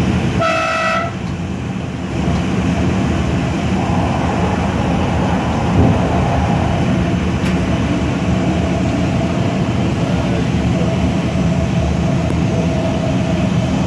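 Electric passenger train running along the line, heard from on board as a steady rumble of wheels on rail. A brief high tone sounds about half a second in.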